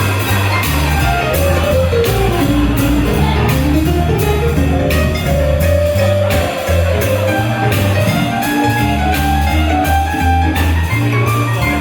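Live swing jazz band playing an instrumental passage: a stepping bass line under a melody that runs down and back up in pitch, with the drums keeping a steady beat.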